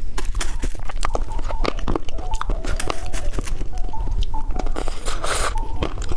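Close-miked mouth sounds of eating candy: rapid irregular wet clicks, snaps and crunches, with a short crackling rustle about five seconds in.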